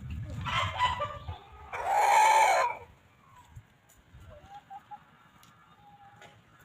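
Chickens calling: a harsh burst of squawking about half a second in, then one loud drawn-out call lasting about a second, followed by a few faint clucks.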